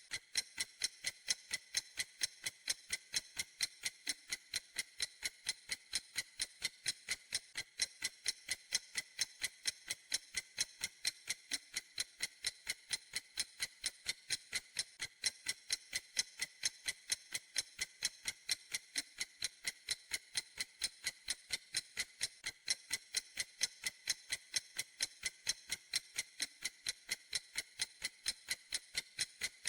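Clock ticking steadily: crisp, high-pitched ticks at an even, fast pace of several a second, with no variation.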